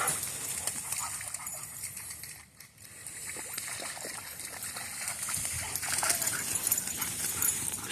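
A dog splashing through shallow floodwater after a thrown ball, with irregular small splashes and sloshing.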